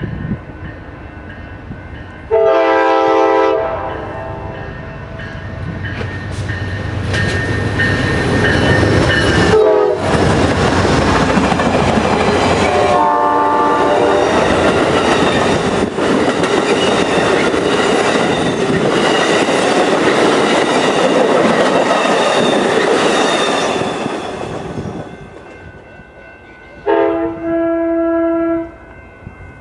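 Amtrak passenger train sounding its multi-chime air horn in several blasts as it approaches, then its bilevel cars rushing past with wheels clicking over the rail joints. The pass-by noise fades after about 25 seconds, and the horn sounds twice more near the end.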